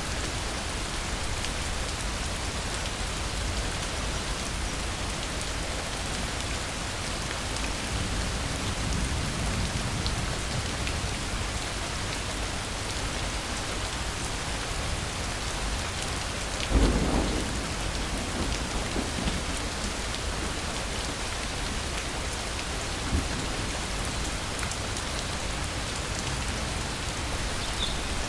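Steady rain falling, with a sudden clap of thunder about two-thirds of the way through that trails off over a second or two, and a smaller thump a few seconds later.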